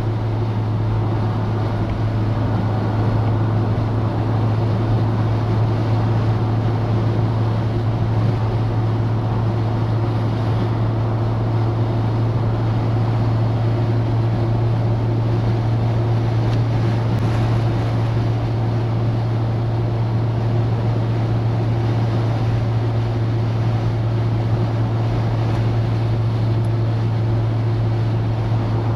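Citroën DS driving at a steady speed: its four-cylinder engine and the road make a constant low drone, with no change in pitch or pace.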